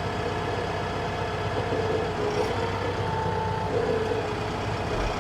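TYM T654 tractor's diesel engine running steadily.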